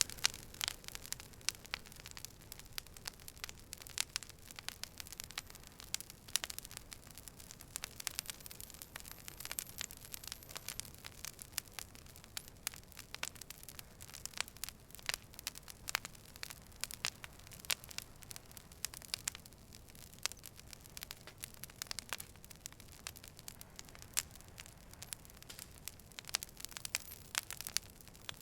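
Campfire crackling: irregular sharp pops and snaps over a soft, steady hiss.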